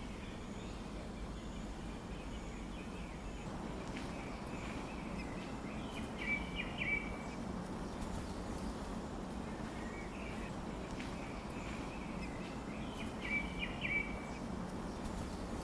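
High-pitched bird chirps running faintly throughout, with two louder clusters of quick chirps about six and thirteen seconds in, over a steady outdoor background hiss.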